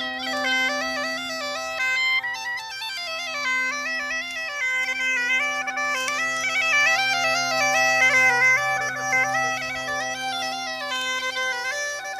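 Bagpipe playing a quick stepping melody over steady, unbroken drones.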